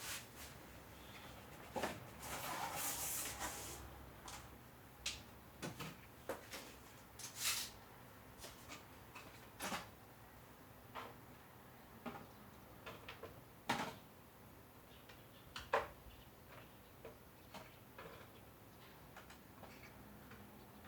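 Irregular light clicks and knocks, a few sharper than the rest, with a short stretch of rustling about two seconds in.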